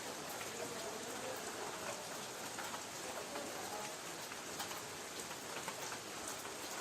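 Light rain falling on a tin roof: a steady hiss with scattered individual drops ticking on the metal.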